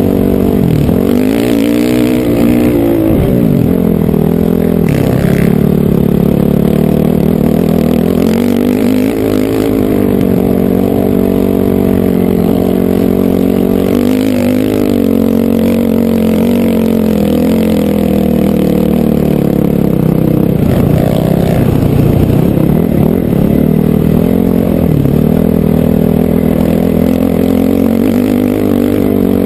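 Honda CRF450R dirt bike's single-cylinder four-stroke engine running under way, its revs rising and falling again and again.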